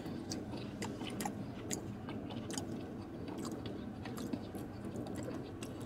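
A man chewing a mouthful of pasta, with many short, irregular wet clicks of the mouth.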